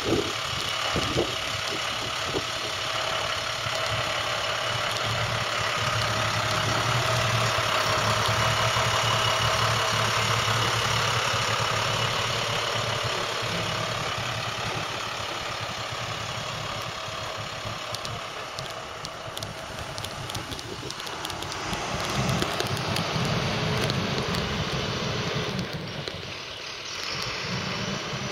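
International 4300 delivery truck's diesel engine running, its sound swelling and easing a couple of times.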